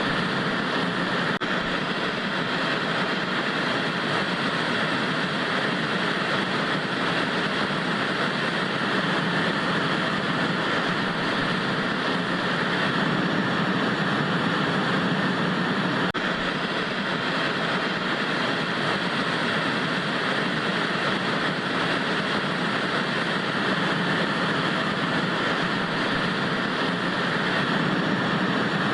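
Steady hiss of analogue TV static, the even noise of a television tuned to no station.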